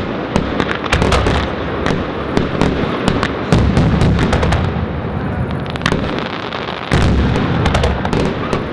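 Aerial firework shells bursting in a dense barrage, with many sharp cracking reports and heavy booms about a second, three and a half seconds and seven seconds in.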